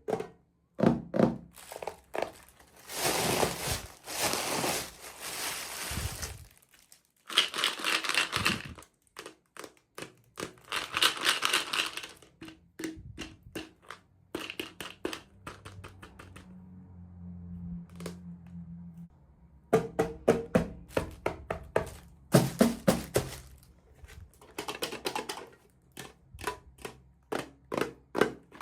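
Unboxing noises: plastic or paper packaging crinkling and tearing in several bursts of a second or two, among many small clicks and knocks of pieces being handled.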